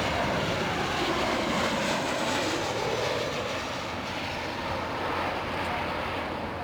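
Jet airliner's engines passing: a steady rush of noise with a slowly shifting tone that gradually fades.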